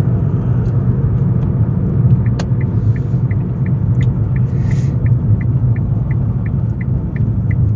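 Steady low road and engine rumble inside a moving car's cabin. About two seconds in there is a click, then a turn signal starts ticking evenly, about three ticks a second.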